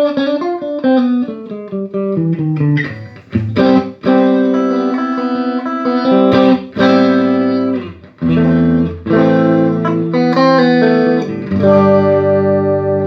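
Electric guitar played through a Peavey Triple X amp being sound-tested after a preamp repair: a quick falling run of single notes, then held chords with short breaks between them.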